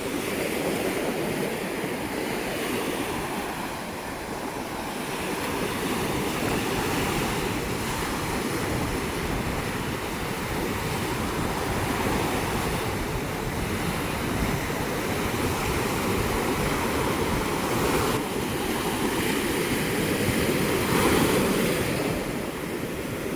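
Heavy sea surf breaking on the beach, a steady rushing wash that swells and eases, with strong wind blowing on the microphone.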